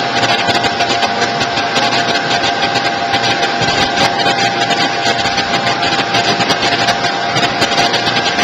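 Vegetable cutter-washer machine running steadily: a motor whine with a constant tone over a dense, even mechanical noise.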